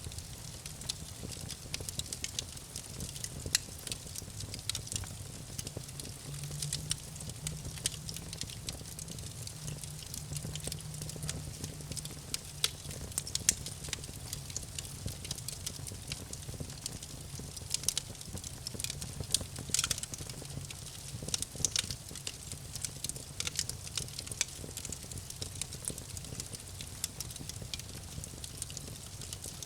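Campfire burning, the wood crackling with many irregular sharp pops, a few louder snaps near the middle, over a steady low rumble.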